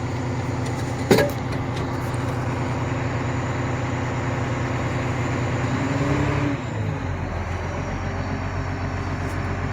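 Large engine of heavy construction machinery running steadily, with a short sharp sound about a second in. A little after halfway the engine rises slightly, then drops to a lower, slower note as it throttles back.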